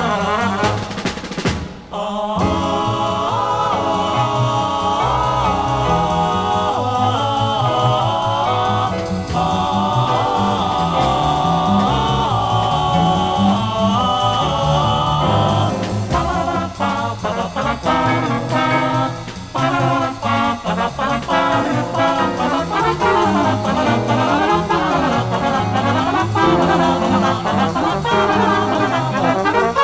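A jazz band plays an instrumental led by trumpets and trombones. The music drops away briefly about two seconds in, and the playing turns more clipped and rhythmic about halfway through.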